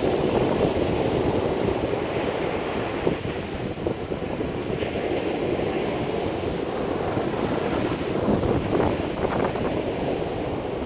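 Strong hurricane wind rumbling on the microphone over the rush of heavy surf breaking on the beach.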